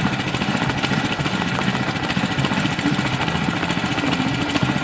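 Small engine-driven water pump running steadily at an even speed.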